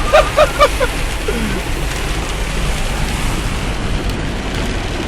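Steady rushing and splashing of floodwater around a four-wheel-drive vehicle wading through a flooded road, with a low rumble beneath. A few short vocal bursts in the first second.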